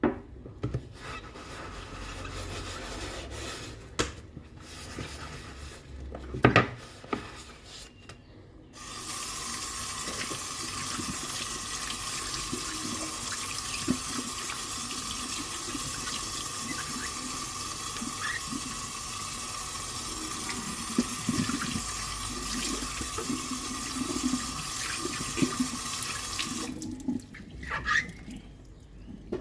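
Kitchen tap turned on about nine seconds in, water running steadily into the sink, and shut off near the end. Dishes knock and clink against each other a few times before and after the water runs, with light clatter under it.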